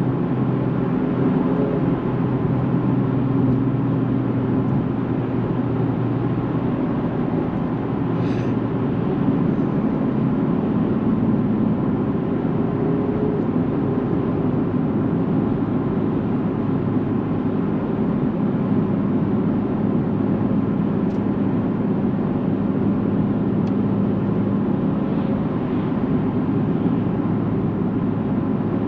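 Nissan 370Z's 3.7 L V6 through a Tomei titanium cat-back exhaust, droning steadily at an even cruising pace, its pitch shifting only slightly, over steady road noise.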